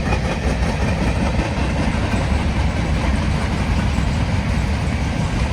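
CSX manifest freight train rolling past, a steady low rumble with faint clicks from the wheels on the rails.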